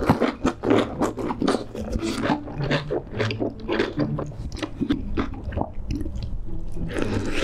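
Close-miked chewing of a big mouthful of lettuce wrap: crisp crunching and wet mouth smacks, repeating a few times a second in a steady rhythm.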